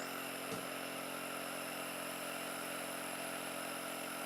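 Compressor nebuliser's small motor running steadily, a low hum with a hiss of air over it. There is a faint tap about half a second in.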